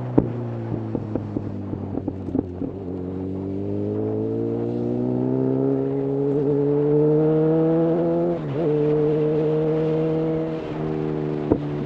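Honda CB1000R inline-four motorcycle engine through a full Black Widow aftermarket exhaust, heard from the rider's seat while riding. The engine note climbs steadily under acceleration, dips briefly about two-thirds of the way through, then settles lower near the end. A few sharp clicks come in the first few seconds and once more near the end.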